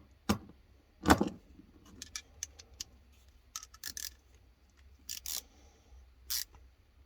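Small metal tools and carburetor parts clinking and knocking as they are handled and set down on a workbench: a run of separate sharp clicks, the loudest about a second in.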